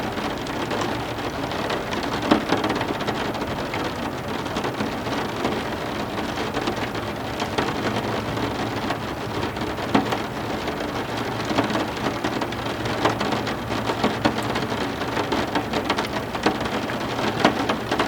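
Heavy rain falling steadily, a dense patter of drops on a surface, with a few louder nearby drop strikes standing out.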